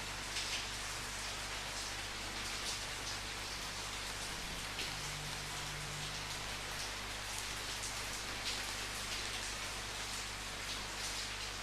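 Steady rain falling, with many individual drops striking close by at irregular moments. A low steady hum runs underneath.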